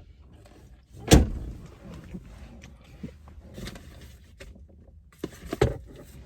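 Someone rummaging through a car's interior: a sharp knock about a second in, then soft rustling and handling noises, and a few more knocks near the end.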